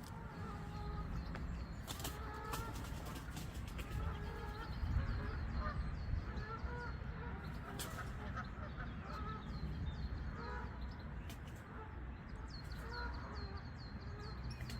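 A flock of birds calling: many short overlapping calls throughout, with runs of quick high chirps from smaller birds over a low steady rumble.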